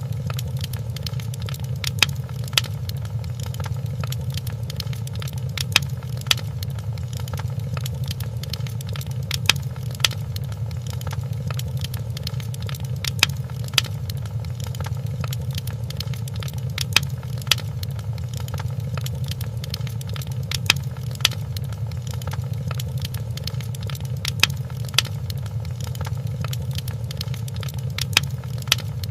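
Wood fire crackling in a fireplace: a steady low rumble under a fine crackle, with sharp pops that mostly come in pairs about every four seconds.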